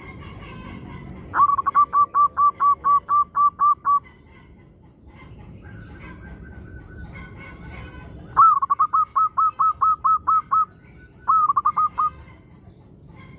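Zebra dove (perkutut) singing: three runs of quick, even cooing notes on one pitch, about five a second, the last run short. Fainter calls of other birds come in between the runs.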